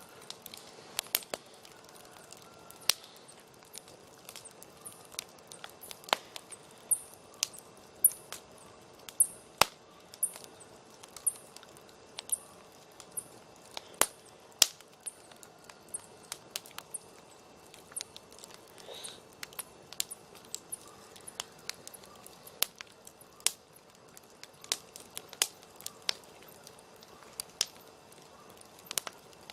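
Wood campfire crackling, with irregular sharp snaps and pops of burning wood over a soft hiss. For several seconds near the middle, a high chirp repeats about twice a second.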